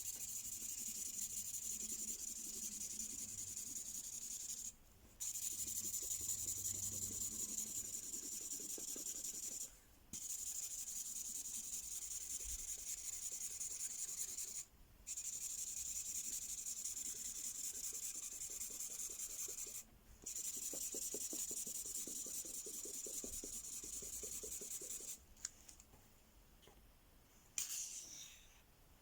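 LOL Surprise Mystery Ink pen scribbling back and forth on a colouring page, a steady scratchy rubbing in stretches of about five seconds with brief pauses between. It stops about 25 seconds in, and a few small clicks follow near the end.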